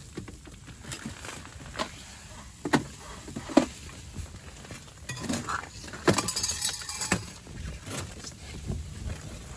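Clinks and knocks of small hard objects being handled, single sharp taps about a second apart with a short rattling run about six seconds in.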